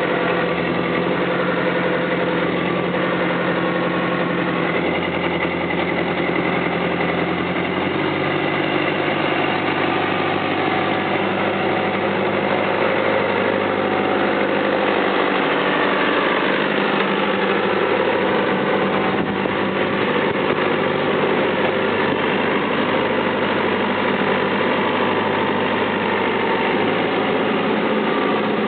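Diesel engine of a CAT 432D backhoe loader running steadily, its low note shifting slightly about eight seconds in.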